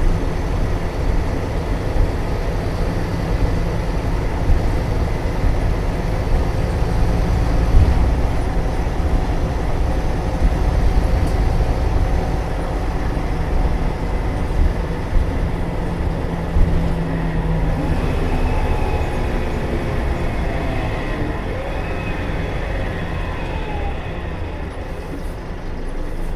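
Scania K320UA bus's rear-mounted 5-cylinder DC09 turbo diesel running under way, with a steady engine hum. In the second half a whine falls in pitch and the sound eases off toward the end.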